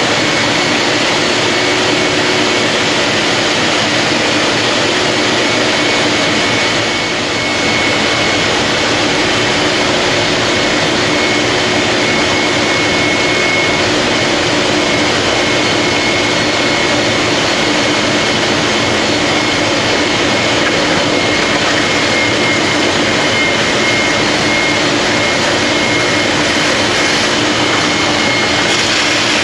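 Big Brute wet & dry industrial vacuum cleaner running steadily with a high whine, sucking up waste oil; the level dips briefly about seven seconds in.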